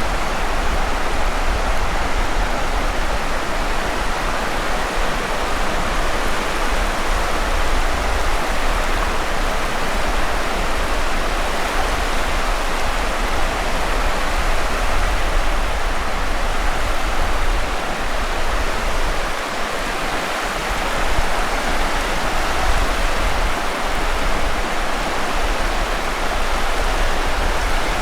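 Steady rushing noise of surf and wind along a beach, with a deep rumble underneath and no distinct waves breaking.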